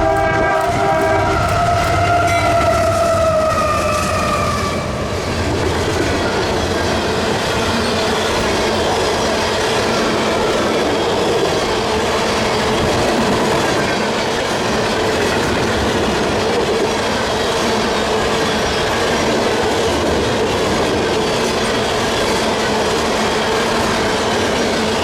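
Freight train passing: the lead locomotive's Nathan K3LA five-chime horn sounds a chord that drops in pitch as the engine goes by, fading out about four to five seconds in. Then freight cars roll past, with steady wheel clatter over the rail joints.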